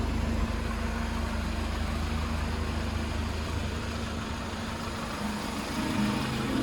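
Hyundai Porter II truck's four-cylinder diesel engine idling steadily.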